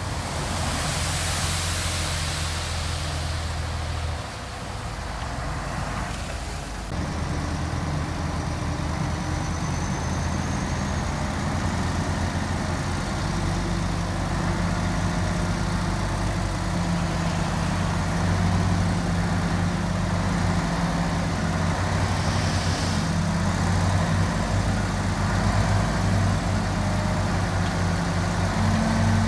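Diesel engines of heavy earth-moving machinery running steadily, with a brief hiss near the start and another later on. The engine sound changes abruptly about seven seconds in.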